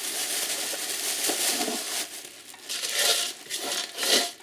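Plastic bag crinkling and rustling as loose copper tubing and wire are handled into it, the rustle coming in uneven waves with a brief lull about halfway through.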